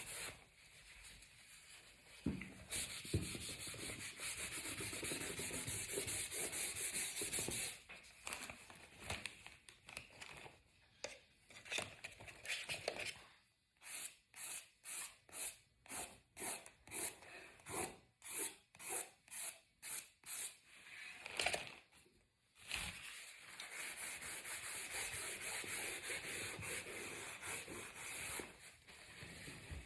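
Colouring strokes on paper: a drawing stick scratches steadily over the sheet, then shades with quick back-and-forth strokes, about two a second, in the middle, before going back to steady scratching.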